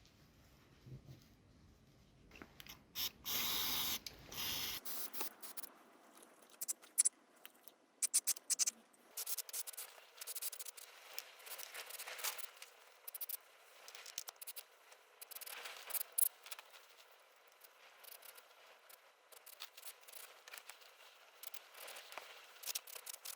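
Small metal engine parts being handled and worked on a bench: irregular clicks, taps and scrapes, with a short hiss about three seconds in.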